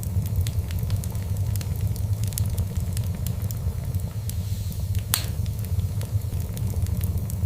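Fireplace fire crackling: many small crackles over a steady low rumble, with one louder pop about five seconds in.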